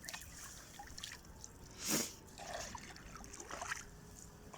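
Faint water sounds: small splashes and trickling, with one louder splash about two seconds in.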